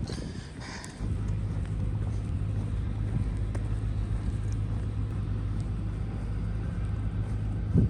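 A motor's steady low hum switches on abruptly about a second in and runs at an even pitch, with a brief thump near the end.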